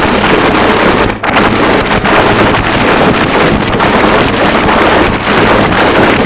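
Harsh noise wall: a loud, unbroken wall of dense distorted static, with one brief dip about a second in.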